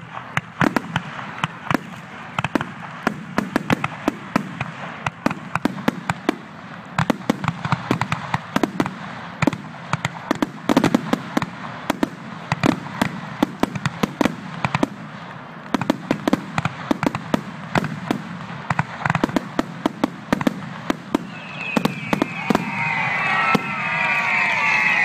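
Fireworks grand finale: a rapid barrage of aerial shells bursting, several bangs a second. Near the end a crowd starts cheering and whistling, swelling over the last few bangs.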